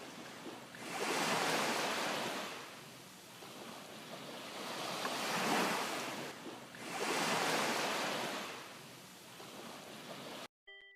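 A rushing noise that swells and fades three times, like surf washing in.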